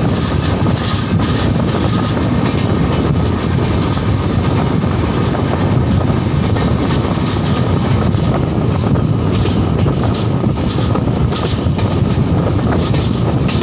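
Passenger train running at speed: a loud, steady rumble of coach wheels on the track, with many irregular short clicks of the wheels over the rails.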